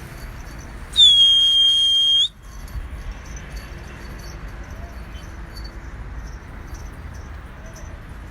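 A single steady, high-pitched whistle blast lasting just over a second, starting about a second in, over faint background hiss.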